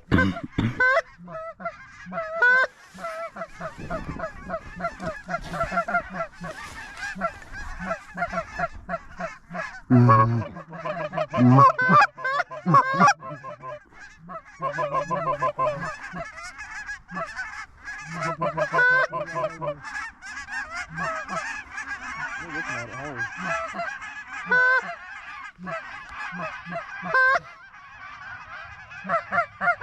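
A flock of geese honking, many calls overlapping without a break, with a few louder, closer honks between about ten and thirteen seconds in.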